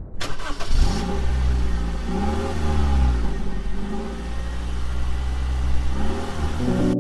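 A vehicle engine revved several times, its pitch rising and falling over a steady low rumble, starting with a sharp click and cut off abruptly.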